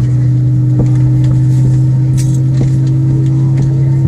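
Airbus A320 cabin drone during pushback and engine start: a loud, steady low hum whose pitch steps up slightly about two seconds in and again near the end, with a few faint clicks and rattles.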